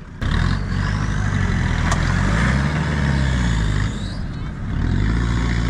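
Four-wheel-drive engine revving hard under load, straining to tow a bogged vehicle out of waterlogged mud. Its pitch rises, drops about four seconds in, then rises again.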